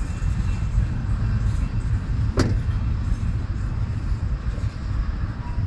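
Double-stack intermodal freight train's container well cars rolling past with a steady low rumble of wheels on the rails, and one sharp click about two and a half seconds in.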